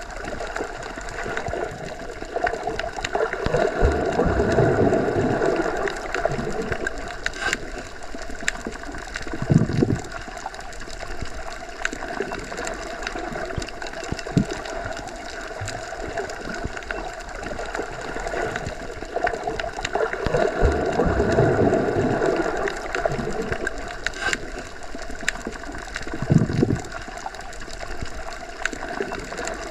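Muffled underwater ambience, as heard when submerged in a pool or lake: a steady hum of water with slow swells of movement. A swell and a short low thud come twice, about 16 seconds apart.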